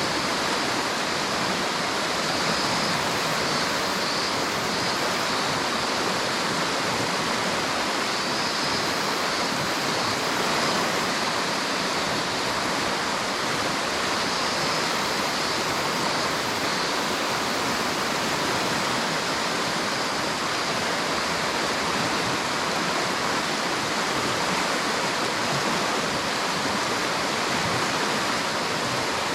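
River water rushing steadily over rocks, an even unbroken flow.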